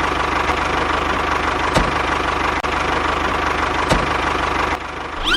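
A DIY mini tractor's small motor running steadily, with an even low pulse and a faint steady whine; it drops off briefly near the end.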